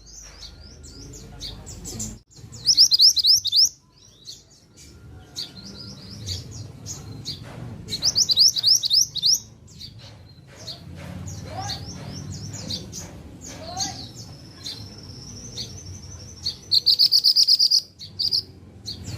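Mantenan bushchat singing in rapid bursts of high, quickly repeated sweeping twitter notes, three main bursts, with a long held high whistle shortly before the last one.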